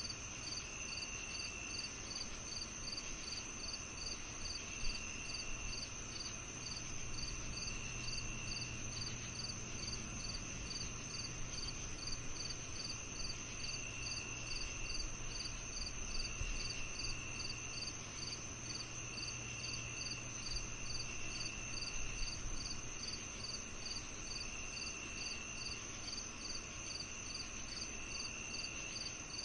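Chorus of crickets and other insects on a summer evening: a steady high trill, a regular chirp about twice a second, and a lower trill that comes in bursts of a second or so every few seconds, over a faint low rumble.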